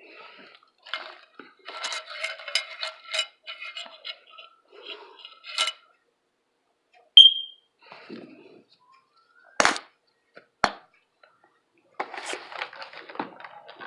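Close-miked eating: crisp, crackly crunching and chewing of breakfast food. About seven seconds in comes one sharp clink of cutlery against dishware, then two dull knocks a second apart.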